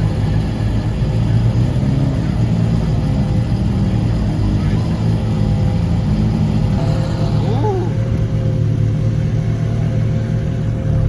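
A car engine idling with a steady low rumble, among crowd chatter.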